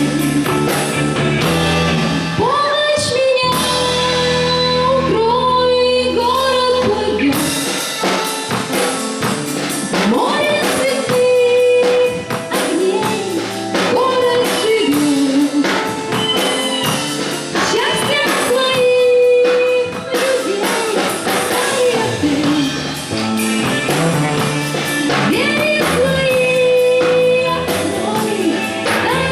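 A live band playing a song: a singer holding long, wavering notes over guitar and drums.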